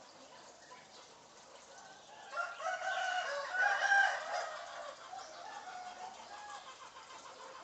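A bird crowing like a rooster, starting about two seconds in and lasting about two and a half seconds, followed by softer short calls.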